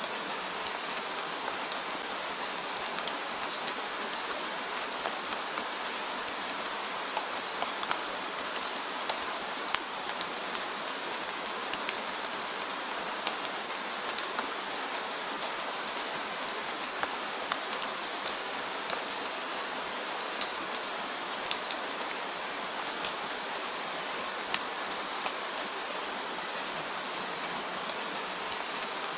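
Steady rain falling, an even hiss with individual drops ticking sharply on a surface throughout.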